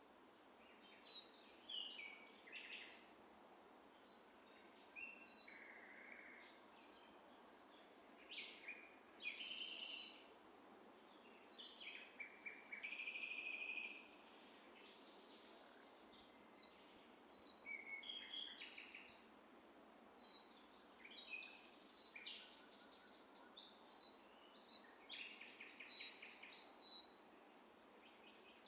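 Several songbirds singing and calling together: many short chirps, whistled notes and rapid trills overlapping one another, fairly faint, over a steady background hiss.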